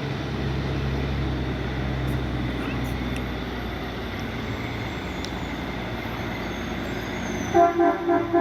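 Loaded heavy truck's diesel engine running steadily at low speed. Near the end a vehicle horn gives four short toots.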